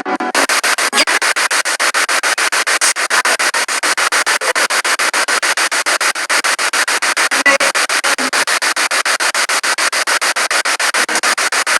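Spirit box (a radio sweeping rapidly through stations) putting out hissing static, chopped into short even pulses several times a second as it scans.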